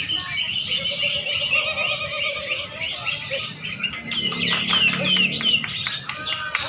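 Many caged songbirds singing at once in a songbird contest: dense overlapping chirps and trills, with a run of quick falling whistles a little past the middle.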